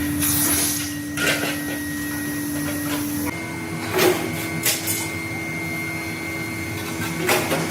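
A metalworking machine tool running with a steady hum that shifts slightly in pitch about three seconds in. Several short clanks or scrapes of metal cut through it, the sharpest about four seconds in and near the end.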